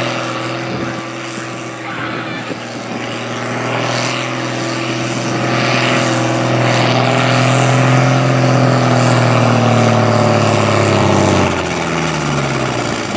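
Farm-class pulling tractor's diesel engine running hard under load as it pulls the sled. Its pitch holds steady and rises a little, then drops away near the end as the run winds down.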